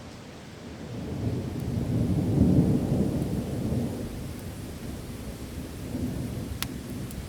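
A roll of thunder over steady rain: a low rumble swells about a second in, peaks, and fades away over a few seconds. A single sharp click sounds near the end.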